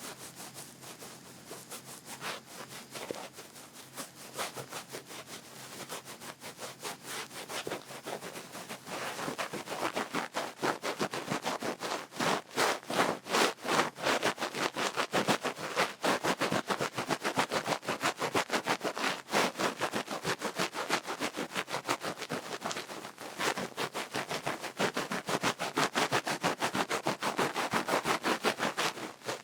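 Duck-feather ear pick rubbing and scratching close to the microphone in rapid repeated strokes, softer at first and louder from about nine seconds in.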